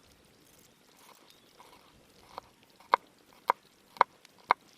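Knife cutting garlic on a chopping board: five sharp knocks, about two a second, in the second half.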